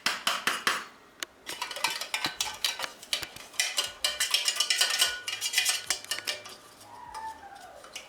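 Quick, irregular scraping and clicking of a hand tool rubbed over a freshly soldered joint to clean off leftover excess. It thins out after about six seconds.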